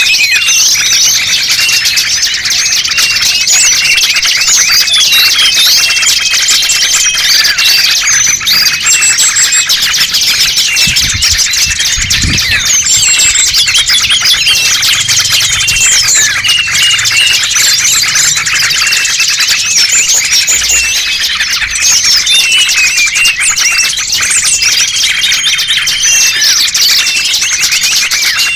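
Loud, dense chorus of many small songbirds chirping and twittering at once, with short steady whistles repeating among the chirps. It is a bird-luring (pikat) recording made to draw small wild birds in.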